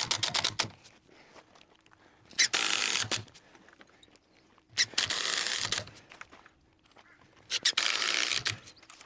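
Power drill with a combination countersink and pilot-drill bit boring screw holes into timber nosing boards, in four short runs of about a second each with pauses between.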